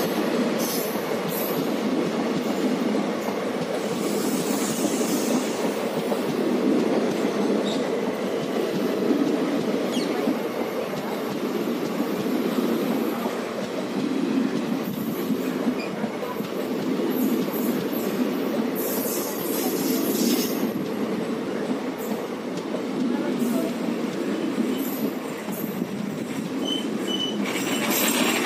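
Passenger coaches of an express train rolling past close by: a steady rumble of wheels on the rails, with a few short clicks here and there.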